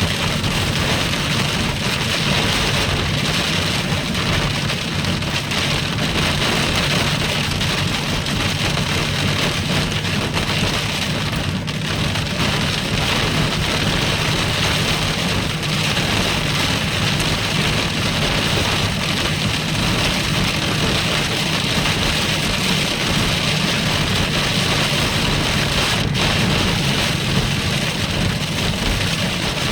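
Steady heavy rain beating on a car while it is being driven, with the car's low running and road noise underneath.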